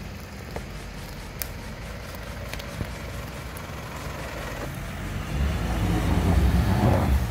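Off-road SUV engine running low and steady, getting louder from about five seconds in as it pulls harder. A few faint clicks come in the first three seconds.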